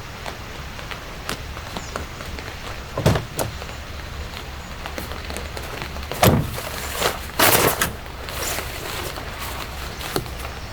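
Steady rain falling, with a dull thump about three seconds in, another about six seconds in, and a short burst of rustling or scraping handling noise soon after.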